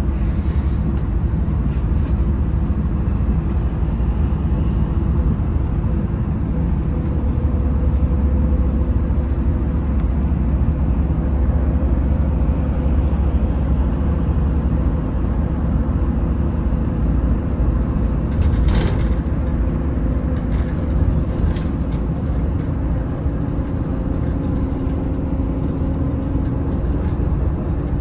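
Daewoo FX116 coach's diesel engine running steadily under way, with a deep road rumble. A few short rattling clicks come about two-thirds of the way through.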